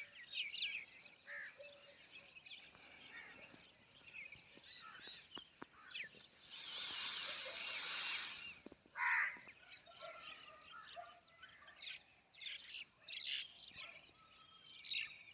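Mixed outdoor birdsong: many small birds chirping and trilling throughout, with a louder single call about nine seconds in. A rushing noise rises for about two seconds around the middle.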